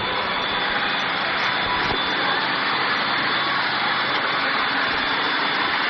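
Steady engine and air noise heard inside the cabin of a Xian MA60 twin-turboprop airliner in flight, with a thin, steady high whine over it.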